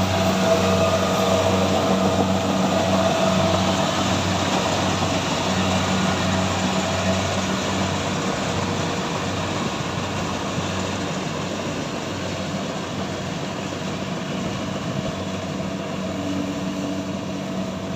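Heavy farm harvesting machine running steadily, its engine making a pulsing low hum over a broad mechanical noise, which slowly grows quieter.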